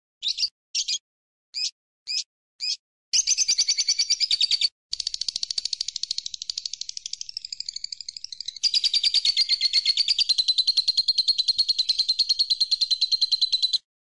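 Songbird song from a bird-training recording: a series of short, sharp, high chirps, then from about three seconds in a long, fast, high trill that breaks off briefly and runs on, settling slightly lower in pitch before stopping near the end.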